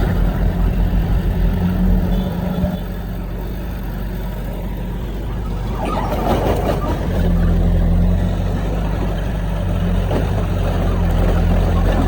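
Heavy diesel earthmoving machinery running, throbbing for the first couple of seconds, with a noisy rush about six seconds in, after which the engine gets louder.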